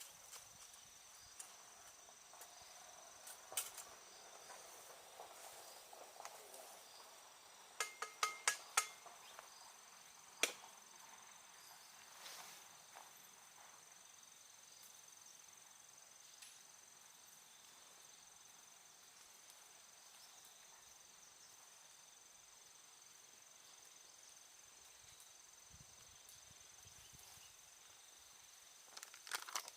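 Faint, steady, high-pitched insect chirring, with a few sharp clicks over it: a quick run of four about eight seconds in and single ones a little before and after.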